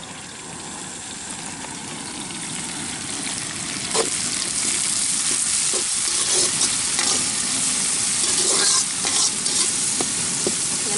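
Chopped tomatoes frying in oil with onions and green chillies in a large metal kadai, sizzling, while a ladle stirs and scrapes the pan. The sizzle grows louder over the first four seconds.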